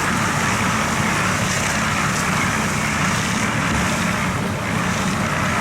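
Large barge diesel engine running hard at full throttle, a loud, steady drone with a low throb.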